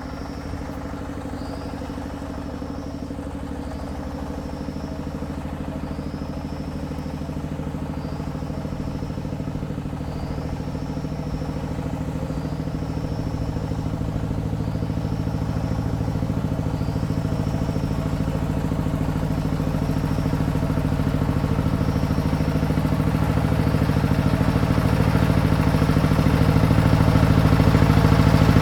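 Engine of a farm vehicle running steadily, growing gradually louder. A faint high chirp repeats about every second and a half over most of it.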